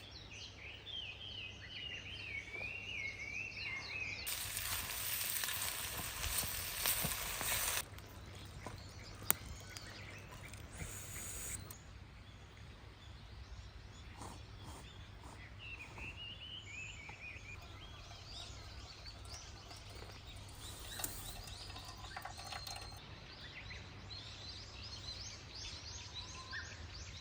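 Birds singing, with a few seconds of food sizzling loudly in a hot pan about four seconds in that cuts off abruptly, followed by a single sharp click. The birdsong carries on through the rest.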